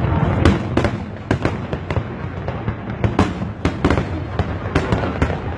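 Fireworks going off in a rapid, irregular barrage: many sharp bangs and crackles every fraction of a second over a continuous low rumble.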